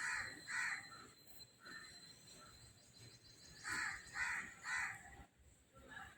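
A crow cawing repeatedly: two harsh caws at the start, a fainter one, then three caws in quick succession about four seconds in.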